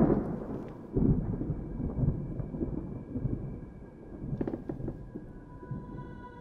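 Deep, rough rumbling that swells sharply at the start and again about a second in, then rolls on more softly. Under it runs an eerie drone of several held tones that grows stronger toward the end, with a few faint clicks about four and a half seconds in.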